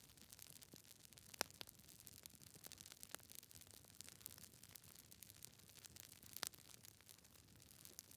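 Wood fire in a fireplace, logs crackling quietly with a steady scatter of small snaps and a couple of sharper pops over a soft hiss.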